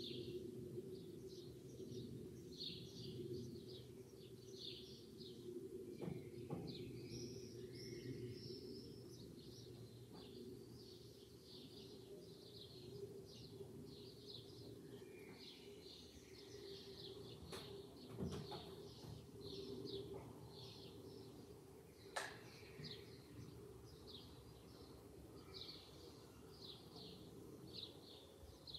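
Small birds chirping over and over, short high chirps about once a second, over a steady low background hum, with a few faint knocks.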